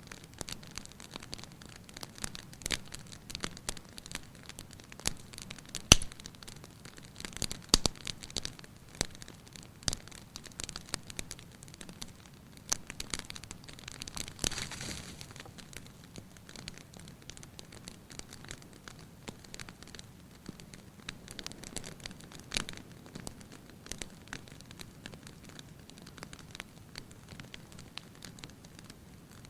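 Wood fire crackling in a fireplace: irregular sharp pops and snaps over a faint hiss, with the two loudest pops about six and eight seconds in and a brief hissing flare-up about halfway through.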